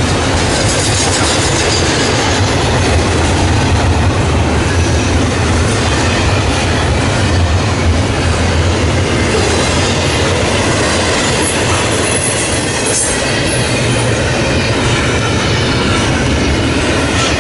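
CSX double-stack container freight train rolling past, a steady loud rumble of wheels on rail, with a faint high wheel squeal about two-thirds of the way through.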